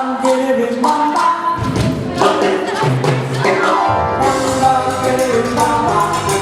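Live salsa band playing, with group singing over the instruments. The bass is thin for most of the first four seconds, then the full band with bass comes in about four seconds in.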